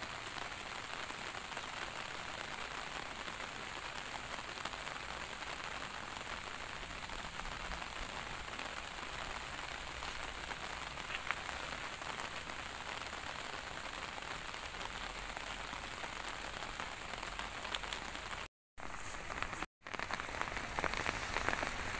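Steady light rain falling, an even patter with no pauses. The sound drops out twice briefly near the end, and after that the patter is louder and more crackling.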